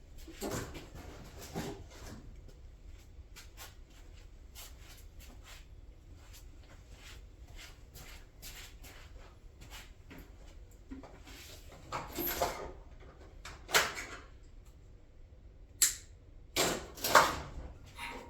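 Scattered light clicks and knocks of parts and tools being handled during a shifter console install, with a few louder clunks in the second half.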